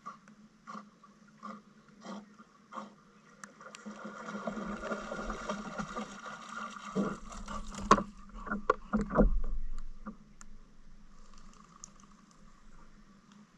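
Canoe paddling on a river. Light clicks come about every three quarters of a second, then water swishes for a few seconds, and a cluster of louder knocks follows a little past the middle, the sharpest about eight seconds in.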